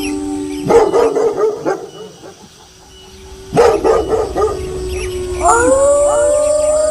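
A wolf howl trailing off, then two short bouts of dog barking about one and four seconds in, then several wolves start howling together near the end, each howl rising in pitch and then holding.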